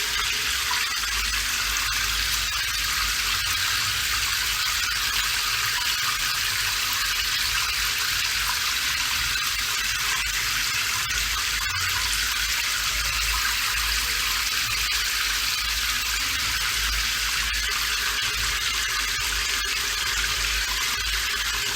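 Steady rain falling: a dense, even hiss with scattered faint drop ticks.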